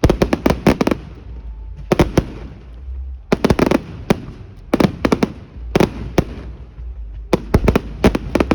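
Fireworks going off: clusters of sharp, rapid bangs and cracks every second or so, over a low rumble.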